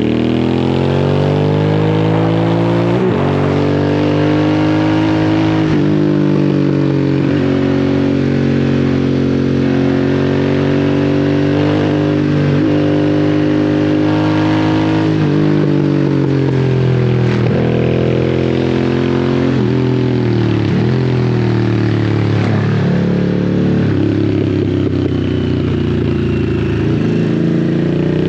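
Harley-Davidson Sportster S's 1250 cc V-twin running through a custom slip-on exhaust at low revs. The pitch climbs repeatedly as it accelerates and drops abruptly each time the throttle is closed or a gear is changed, over steady wind and road noise.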